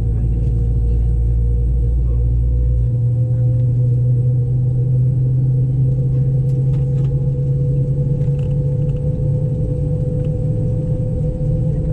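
Loud, steady drone of a Boeing 717's rear-mounted Rolls-Royce BR715 turbofan engine, heard from the cabin seat beside it as engine number 1 starts up. The deepest rumble drops away about three seconds in, leaving a steady hum with a faint tone above it.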